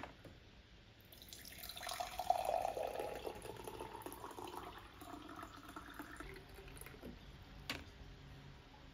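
Water running from a tap into a sink. It starts about a second in, is strongest early on and tapers off, and a single sharp click follows near the end.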